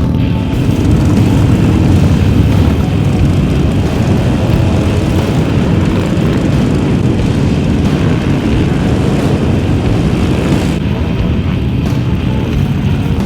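Motorcycle engines running together as a pack rides, a steady, loud low drone with no breaks.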